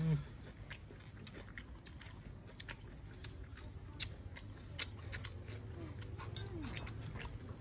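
People eating at close range: chewing, with many small sharp clicks and taps scattered throughout.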